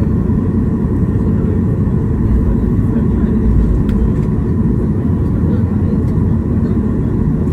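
Jet airliner cabin noise: a steady, loud, low rumble from engines and airflow inside the passenger cabin, just after landing.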